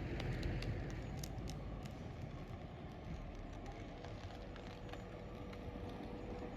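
Low rumble of a Roslagsbanan narrow-gauge electric train fading away, with scattered light clicks. A faint steady whine comes in about four seconds in.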